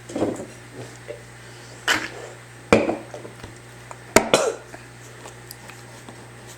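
A child eating noisily at the table: a few sharp knocks and clinks of an eating utensil against a dinner bowl, spread across several seconds, with short throaty mouth noises after some of them.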